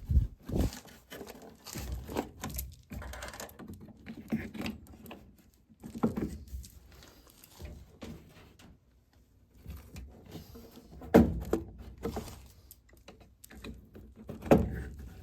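Irregular knocks, taps and rustling from hands working on a furnace cabinet, with a few louder knocks, one about a second in and two more near the end.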